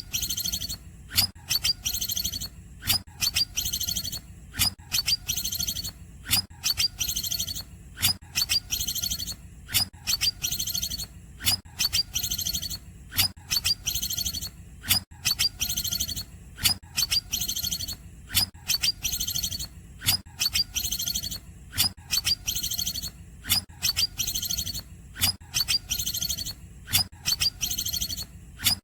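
Green leafbird (cucak ijo) singing in short, high-pitched phrases repeated in quick succession, each opening with a sharp click-like note. The phrases are cungkok-style calls worked into its song.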